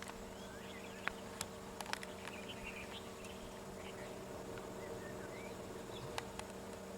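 Steady insect buzzing with faint bird chirps and a few sharp clicks.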